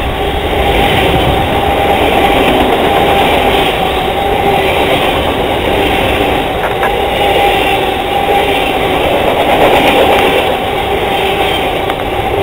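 Freight train of autorack cars rolling past close by: a loud, steady rumble of wheels on rail, with a steady whine held underneath.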